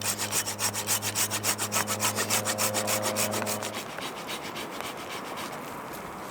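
Hand saw cutting through dead wood with quick, even back-and-forth strokes, stopping about four seconds in.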